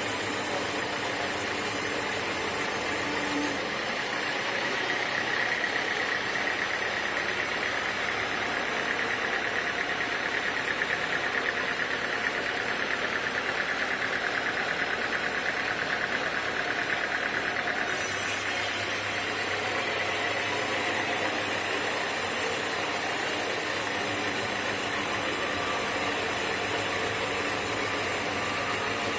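Sawmill machinery running steadily, an engine-like drone with a high whine over it. The sound changes abruptly about four seconds in and again about eighteen seconds in.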